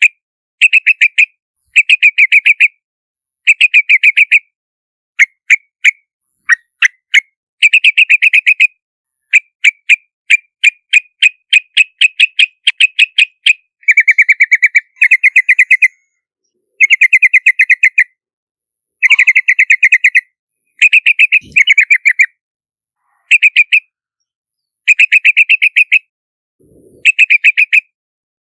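Yellow-vented bulbul calling: runs of rapid, chattering notes, each run about one to two seconds long, repeated with short silent gaps between them. A few separate single notes come in the first seven seconds.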